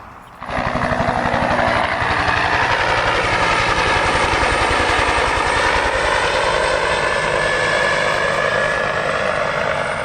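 Helicopter flying close by: fast, steady rotor chop with a turbine whine over it, starting abruptly about half a second in and easing slightly near the end.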